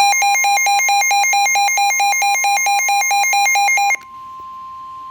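Weather-radio warning alarm: a steady tone of about 1 kHz, the 1050 Hz warning alarm tone, with a loud electronic beeping over it, about four to five beeps a second. The beeping stops about four seconds in while the steady tone carries on.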